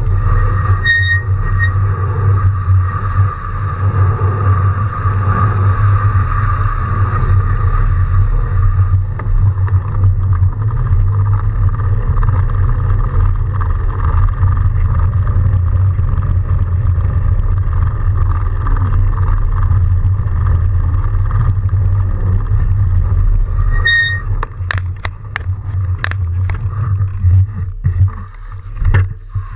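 Steady riding noise from a fat bike in a snowstorm: a loud low rumble of wind and tyres. A short high beep sounds about a second in and again near the end, followed by a few sharp clicks.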